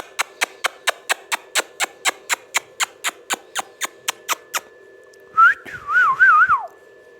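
A string of sharp, evenly spaced clicks, about four a second, then a parrot's short whistle that wavers up and down and falls away at the end, about five and a half seconds in. A faint steady tone runs underneath.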